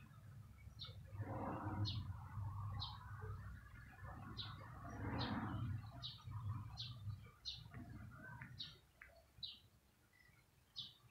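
A small bird chirping over and over, short high chirps at a steady pace of about one to two a second. Under it runs a low steady hum, with two brief swells of rushing noise in the first half that are louder than the chirps.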